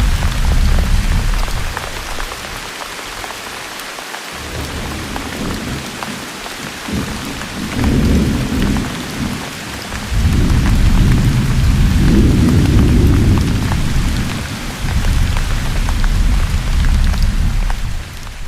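Steady heavy rain falling, with rolling thunder. The thunder rumbles at the start, briefly about eight seconds in, and longest through the second half.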